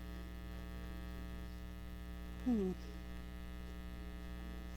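Steady electrical mains hum, with one short falling vocal sound, a strained 'mm' of effort, about halfway through.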